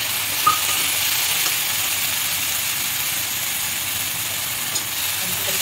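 Chopped onions, green chillies and ginger-garlic paste sizzling in hot oil in a pan, a steady hiss, with a sharp tap of a metal slotted spatula against the pan about half a second in and a few faint scrapes as the masala is stirred.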